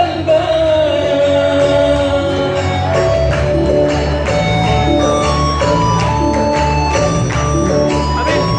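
Live band playing a Sudanese Christian hymn, with steady bass and regular drum strikes under sustained instrumental notes; a held sung note bends and fades in the first second.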